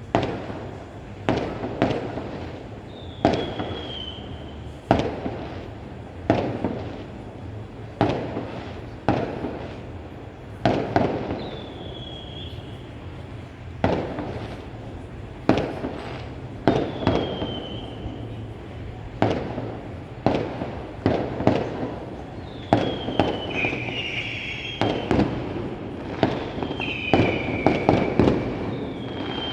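Fireworks going off: a steady run of sharp bangs, about one every second or so and more frequent after about twenty seconds, each with a short echoing tail, with several short falling whistles among them.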